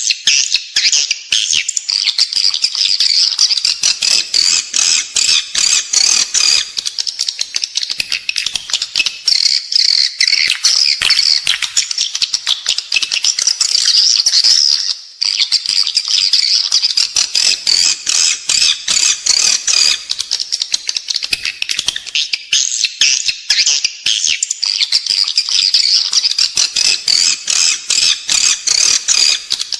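Edible-nest swiftlets twittering in a dense, continuous chorus of high chirps and clicks, which briefly thins about halfway through. It is the 'inside the building' swiftlet call, a recording played in swiftlet houses to lure the birds in to nest.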